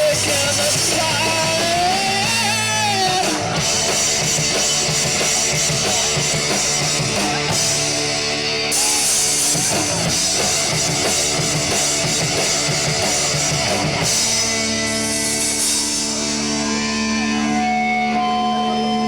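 Live rock band playing with drum kit and electric guitars. For the last few seconds the band holds a chord, and then it stops abruptly.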